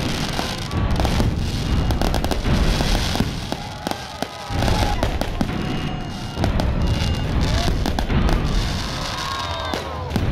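Aerial fireworks bursting in quick succession: a steady run of bangs and crackles.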